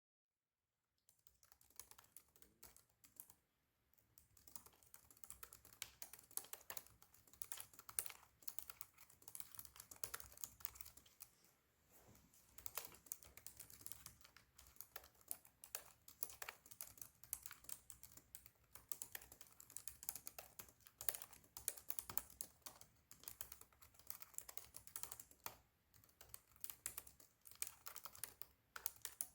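Fast typing on a Razer laptop's built-in keyboard: a dense, irregular patter of key clicks that starts about a second in, with short lulls around four and twelve seconds in.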